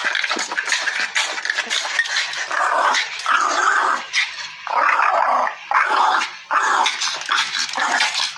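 Dog growling in repeated, irregular bursts.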